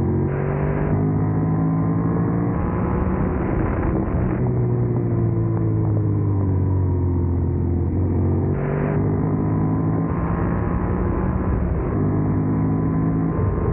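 Yamaha MT-07 parallel-twin engine running under way. The pitch rises and falls with the throttle, with a few sudden steps in pitch.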